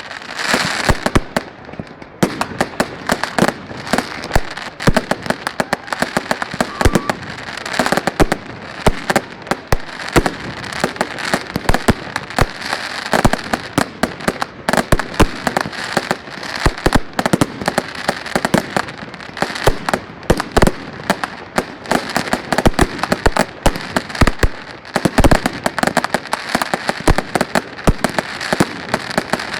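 Fireworks going off without a break: a dense, rapid string of bangs and sharp cracks over continuous crackling.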